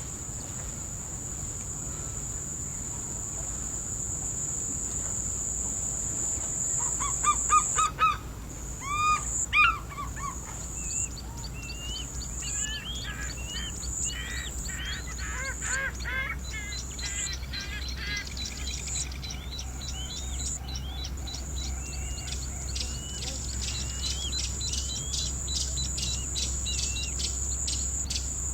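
Riverside birds calling over a steady, high insect buzz that breaks into a pulsing rhythm. A few loud, honking calls come about seven to ten seconds in, followed by a run of shorter rising-and-falling calls. A low steady rumble runs underneath.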